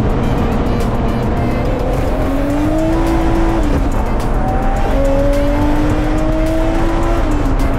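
Turbocharged BMW S54 straight-six of an E46 M3 race car under hard acceleration, its pitch climbing slowly, with an upshift about three and a half seconds in and another near the end.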